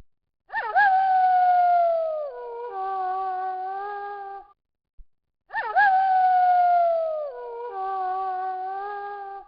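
Wolf howling: a howl that swoops up sharply, then slides slowly down in pitch, followed by a lower, steadier held howl. The same pair of howls comes again about five seconds later.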